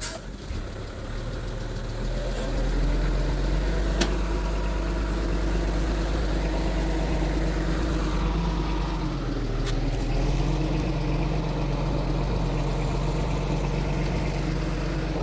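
Diesel engine of a Mitsubishi bulldozer running, growing louder over the first two seconds and then holding steady, with a short dip and pick-up about nine seconds in. A few sharp clicks sound over it.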